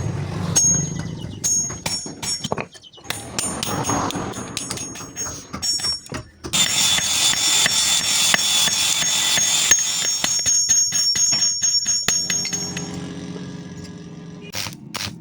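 Hammer blows on steel at a blacksmith's anvil, each strike ringing metallically. In the middle, a continuous high-pitched metallic ringing runs for several seconds, and a quick run of strikes comes near the end.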